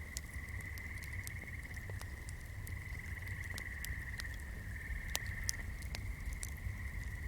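Swamp night chorus: a continuous high, trilling hum from calling frogs or insects. Scattered small crackles, like a fire crackling, and a low background rumble run along with it.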